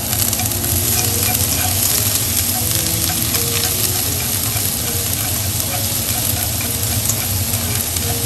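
Minced lemongrass and frozen minced garlic frying in oil in a nonstick pan, stirred with chopsticks: a steady sizzle with many fine crackles.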